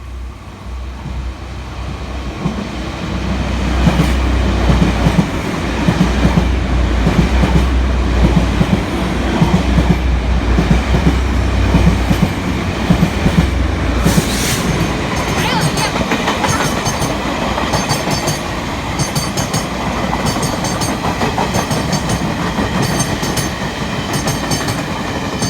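Passenger train passing through a station: a heavy low engine rumble for roughly the first half, a brief high squeal about fourteen seconds in, then wheels clacking over rail joints in regular repeated groups as the carriages go by.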